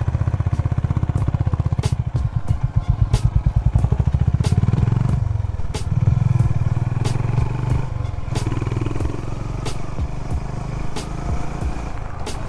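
Honda CB350 H'ness's single-cylinder engine running at low revs, its separate exhaust beats pulsing for a few seconds, then settling into a steadier run about five seconds in. Scattered sharp clicks sound over it.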